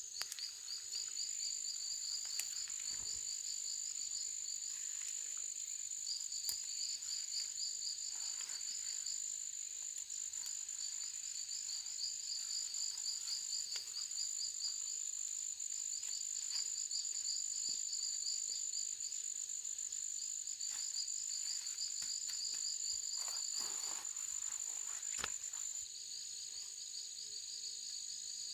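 Forest insects calling: one holds a steady high-pitched whine while another chirps in rapid pulsed bouts a few seconds long with short gaps between them. The steady whine eases off near the end, and a few faint clicks and knocks sound now and then.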